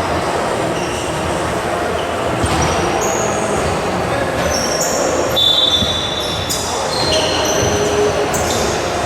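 Basketball game in an indoor arena: a ball bouncing and sneakers squeaking sharply on the court over steady crowd chatter, with a run of squeaks in the second half.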